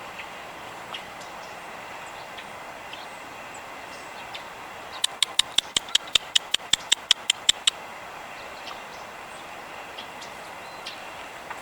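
A rapid run of about fifteen sharp clicks, roughly six a second, starting about five seconds in and lasting under three seconds, over a steady background rumble.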